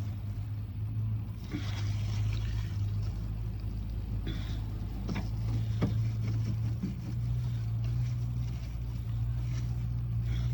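Small electric pump motor running with a steady low hum, with a few short clicks and knocks over it.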